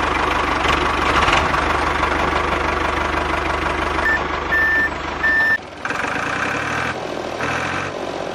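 Small motor of a DIY model mini tractor running steadily, with three short high beeps about four to five seconds in. After the beeps the running sound cuts briefly and comes back changed, in two uneven spells.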